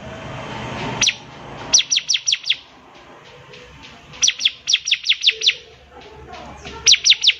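Bar-winged prinia (ciblek) singing: rapid runs of sharp, high, down-slurred notes, about six to eight to a run, in three bursts with short pauses between them. A hiss swells during the first second and cuts off.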